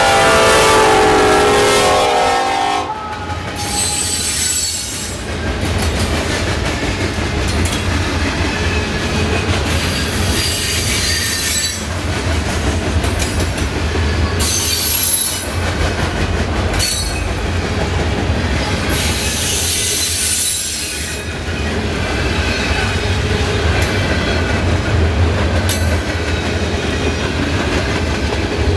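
Freight train's diesel locomotive horn sounding and cutting off about three seconds in. Then the train rolls past with a steady low rumble, wheels clacking over the rail joints and repeated bursts of high wheel squeal.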